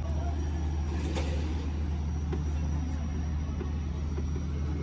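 Steady low-pitched mechanical hum of a running machine, with a brief rush of noise about a second in.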